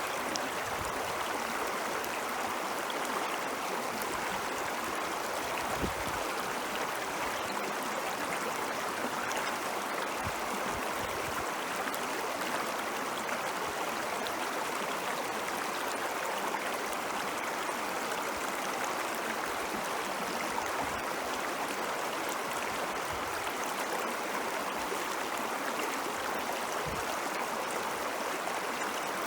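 Ice-melt stream water flowing and splashing steadily, with a continuous rushing and gurgling and an occasional faint low thump.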